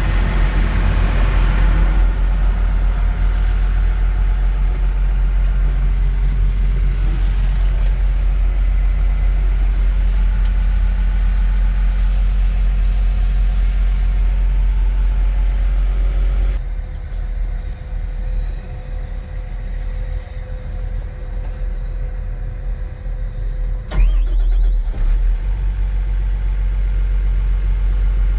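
John Deere 750K LGP dozer's diesel engine running with a steady low rumble; about two-thirds of the way through it drops quieter and duller, with one sharp knock a little later.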